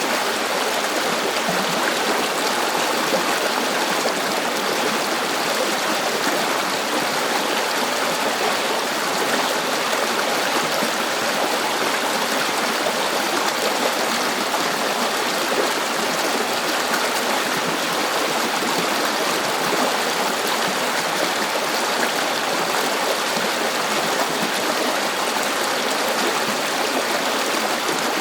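River water flowing over rocks, a steady rushing and burbling with no change.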